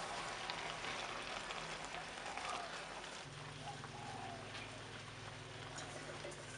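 Shrimp curry sizzling in a pan: a steady hiss with small crackles. A low steady hum comes in about halfway through.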